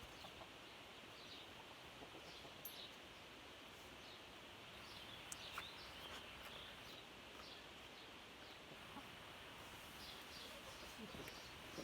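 Near-quiet outdoor background with faint, scattered bird chirps, and a few soft chicken clucks near the end.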